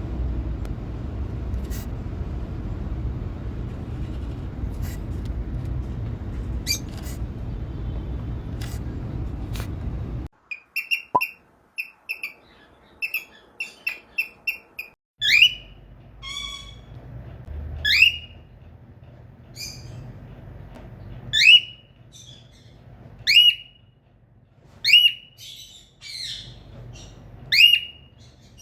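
Cockatiel calling: a steady low background noise with only faint calls for the first third, then a run of quick short chirps, then loud repeated calls that sweep up and fall back, one every one and a half to two seconds.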